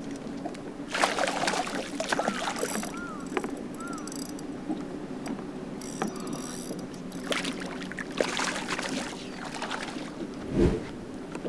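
Bass boat on the water: a steady low hum runs throughout, with two stretches of rustling noise, a few short high chirps early on, scattered clicks, and a brief low thump near the end.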